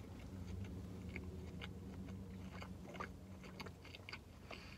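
A person chewing a mouthful of a cheeseburger roll, with faint, irregular clicks of the mouth and food over a low steady hum.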